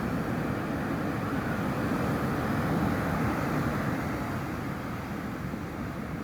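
Steady rush of sea surf mixed with wind buffeting the microphone, swelling slightly a couple of seconds in.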